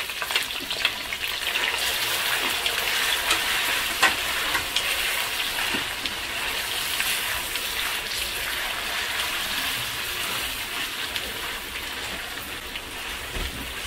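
Paneer cubes sizzling and crackling in hot refined oil in a steel kadai, stirred with a wooden spatula, with one sharp click about four seconds in.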